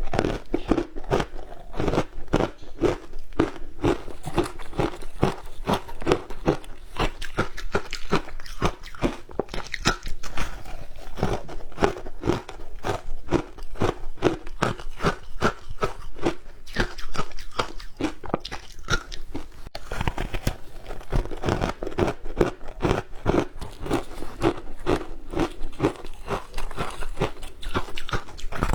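Close-miked crunching and chewing of frozen shaved ice, bite after bite in a steady run of crisp crunches, about two to three a second.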